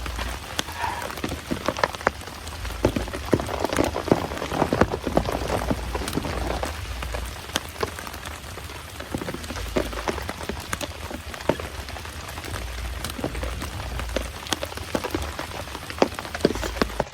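Heavy rain pouring steadily, with many sharp, irregular drop strikes close by.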